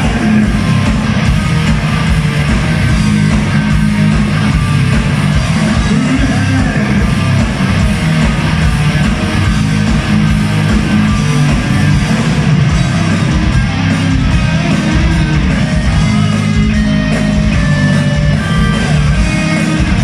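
Metal band playing live at full volume: electric guitars, bass and drums driving on steadily.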